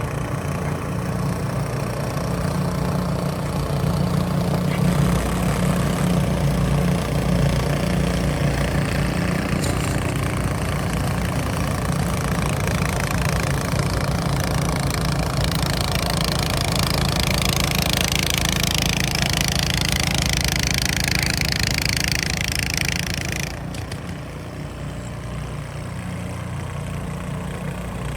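An engine idling steadily, with a low even hum. Partway through, a loud hiss joins it and then cuts off abruptly, after which the engine sound is somewhat quieter.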